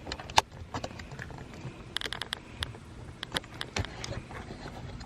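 Irregular clicks and taps of plastic mount parts being handled and fitted together, with one sharper click about half a second in.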